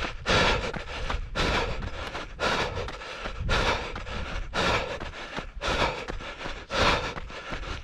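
A runner's heavy breathing close to the microphone, loud breaths coming regularly about once a second.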